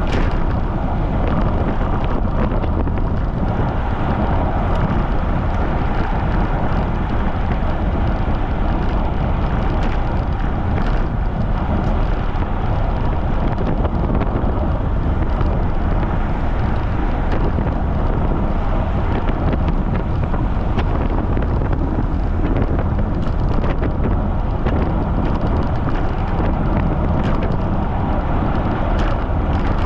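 Steady, loud wind rumble buffeting the microphone of a camera on a bicycle riding at speed in strong wind.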